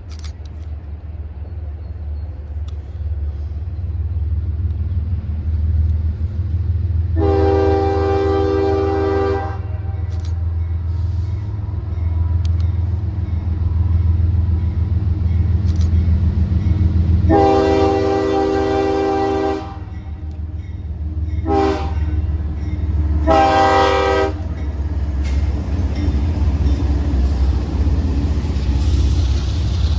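Diesel locomotive sounding a multi-note horn in the grade-crossing pattern, long, long, short, long, over the heavy rumble of the engine, which grows louder over the first few seconds as the train approaches.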